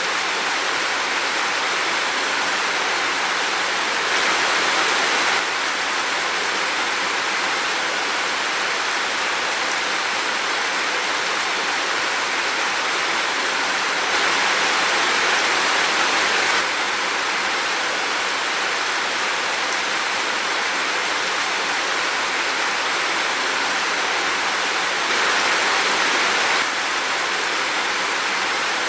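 Heavy rain falling, a steady dense hiss that swells a little louder three times, for a second or two each, starting and stopping abruptly.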